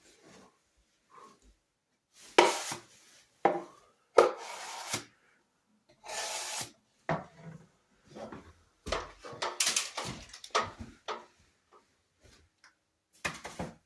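A drywall knife scraping in irregular strokes, spreading and smoothing joint compound over a ceiling patch.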